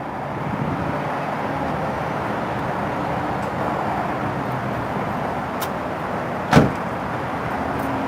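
Steady running noise of a car on the road, with a single sharp knock about six and a half seconds in.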